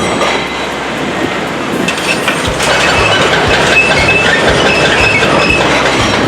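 Heavy construction machinery working with a rhythmic metallic clatter. From about halfway in there are knocks about twice a second and short high squeals.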